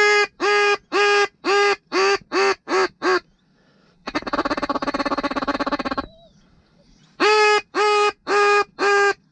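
Mallard duck call blown by a hunter to draw circling ducks in: a run of seven quacks that get shorter and faster, then about two seconds of rapid chattering feed call, then five long, even quacks near the end.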